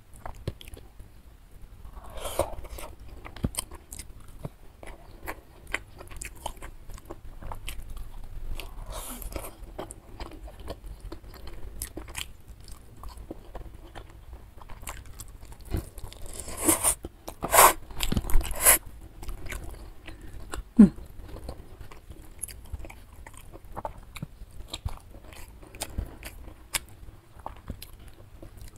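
A person chewing and biting a mouthful of nasi padang close to the microphone: soft chewing with crisp crunches mixed in, loudest from about 16 to 19 seconds in.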